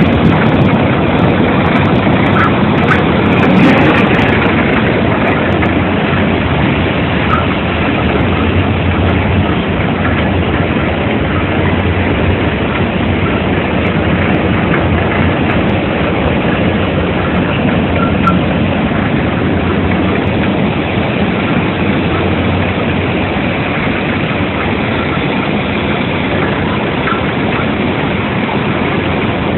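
Coffee dryer machinery running steadily: a continuous mechanical noise with a low hum.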